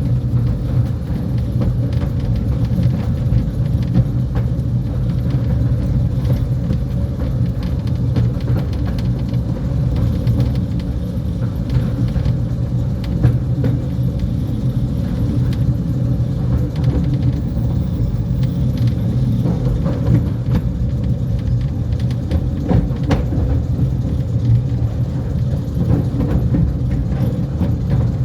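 Mail Rail battery electric train running steadily along the track, a continuous low rumble of wheels and motor with scattered clicks and knocks from the running gear.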